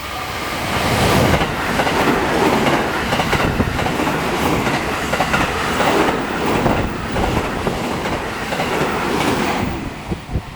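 A train passing close by at speed: the loud rush of wheels on rail with clickety-clack over the rail joints. It builds over about the first second and falls away near the end, while the level-crossing bell rings around it.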